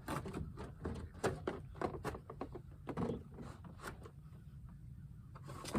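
Irregular clicks, knocks and rattles from hands working materials into place for a chicken run, a few sharp taps standing out among softer scraping.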